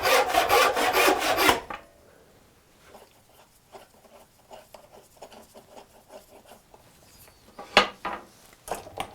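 Quick, even back-and-forth strokes of a hand tool cutting wood, stopping about a second and a half in. Then light clicks and taps, with one sharp knock near the end.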